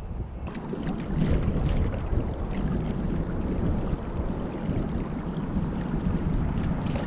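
Wind buffeting the microphone, a steady low rumble with a few faint ticks, while the angler is on the water.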